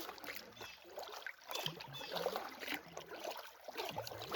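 Canoe paddling: irregular splashes and drips of water from paddle strokes, with a few light knocks.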